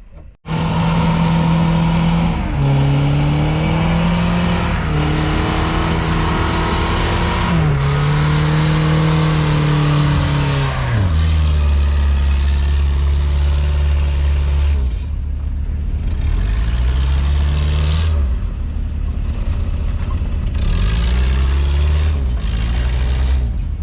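An off-road 4x4's engine working hard in deep snow, revving up and down with its pitch rising and falling, then settling about halfway through to a lower, steadier drone. It starts abruptly just after the beginning.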